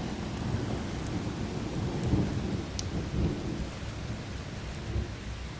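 Heavy rain as a steady hiss, with an uneven low rumble underneath and a few sharp ticks.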